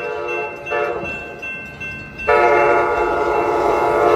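Horn of an Amtrak Capitol Corridor train locomotive blowing for a grade crossing as the train approaches: a chord horn blast, then a much louder long blast beginning about two seconds in.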